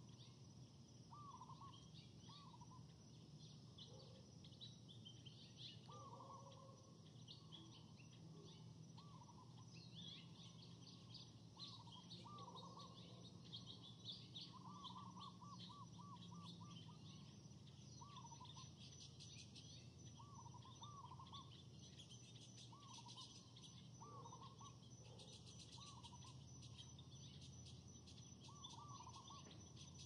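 Faint birds calling: short notes repeated every second or two, sometimes in quick runs, with scattered high chirps, over a low steady hum.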